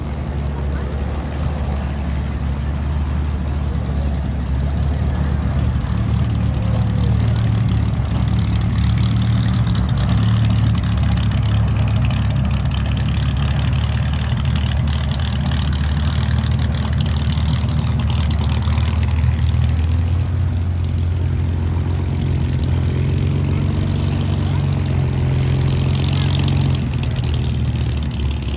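Piston engine of a Second World War fighter, a Rolls-Royce Merlin V12, running steadily at low power as it taxis: a deep, even drone.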